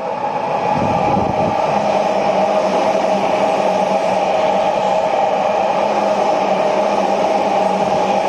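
Electric commuter train running past close by on the near track at speed: a steady rumble of wheels on rail with a steady hum over it.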